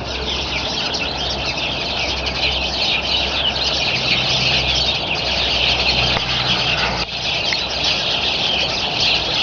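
A flock of small birds chattering all at once, a dense continuous chorus of quick high chirps, with a low steady hum underneath.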